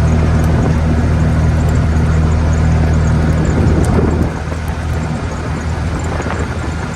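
An engine running steadily with a low hum, dropping in level and thinning a little about four seconds in.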